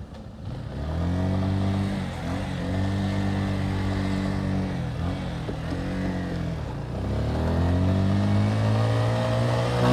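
Motorcycle engine running under way, picking up about a second in. Its pitch dips and recovers a few times, then climbs steadily near the end as it accelerates.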